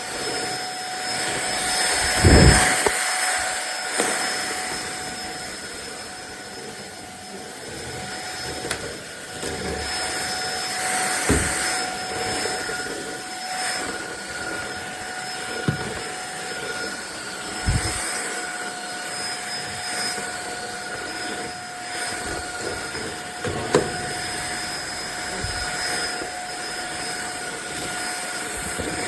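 Fieety 550 W cordless stick vacuum cleaner running, a steady high whine over the rush of air, with a few dull thumps scattered through.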